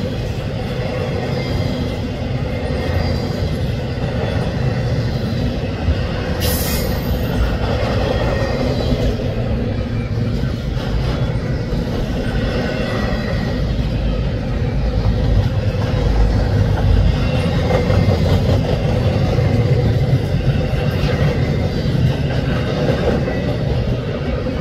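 Double-stack intermodal train's loaded well cars rolling past: a steady rumble of steel wheels on the rails, with a brief high squeal about six seconds in.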